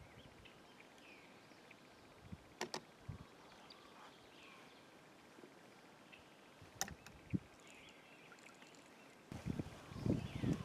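A few sharp clicks and knocks of gear being handled in a kayak, with a burst of low knocking near the end; birds chirp faintly in the background.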